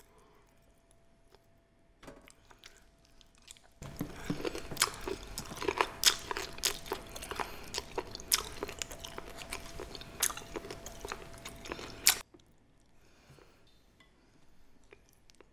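Close-mic chewing of crisp pa-ganghoe, blanched Welsh onion rolled into bundles: crunchy bites with many sharp crackles. It starts about four seconds in and cuts off abruptly about eight seconds later.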